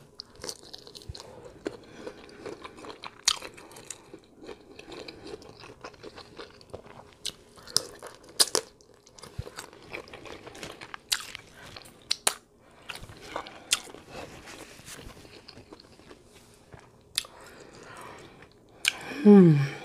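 Close-up mouth sounds of a person chewing shrimp: wet smacks and sharp little clicks scattered irregularly. A brief vocal sound comes near the end.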